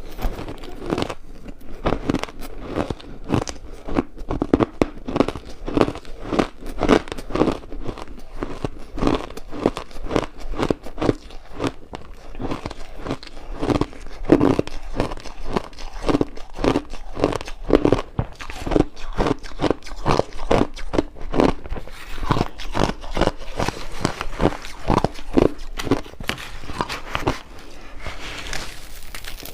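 A person biting and chewing ice: a steady run of close, crisp crunches, about two a second.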